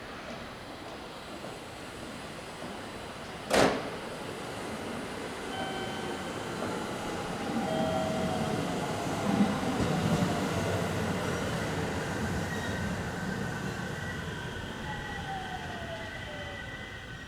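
JR Central 313 series electric train pulling out of the station. A brief sharp burst of noise comes about three and a half seconds in. Then its IGBT VVVF inverter drive sets up whining tones that shift in pitch as the train speeds up, over wheel rumble.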